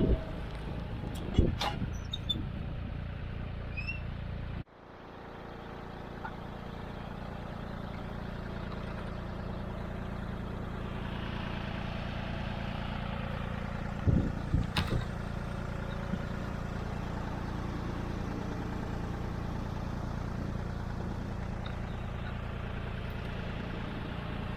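John Deere 5310 tractor's diesel engine running steadily, with a few sharp clunks about a second and a half in and again around fourteen seconds. The sound cuts out abruptly near five seconds and then builds back up.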